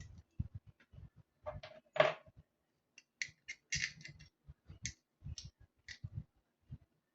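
Handling noises from small parts and tools at a workbench: a run of scattered clicks and light knocks, with one louder clatter that rings briefly about two seconds in.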